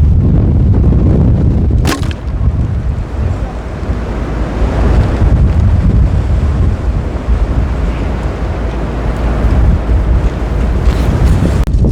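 Strong gusting wind buffeting the microphone: a loud, low rumble that swells and eases, with a brief sharp click about two seconds in.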